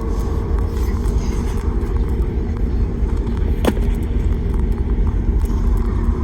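Airliner cabin noise: a steady low rumble of the jet's engines and air systems with a faint steady hum, and one brief sharp click about three and a half seconds in.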